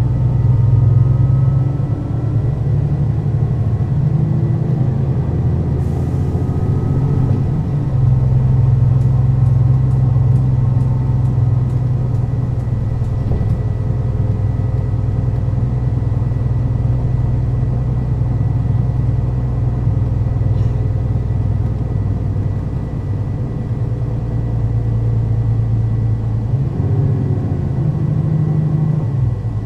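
Mercedes-Benz O 530 Citaro city bus's diesel engine and ZF automatic gearbox running under way, a steady low hum. The engine note steps about two and eight seconds in, runs steady, then drops and picks up again near the end, as with gear changes and a slowdown.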